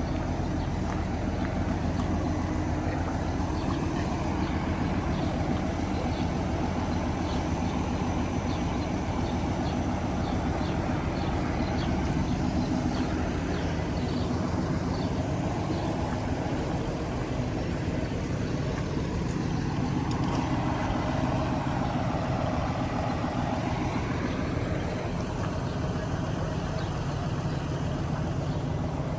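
A large engine running steadily at a low, even pitch. About two-thirds of the way through, a sound falls and then rises again in pitch.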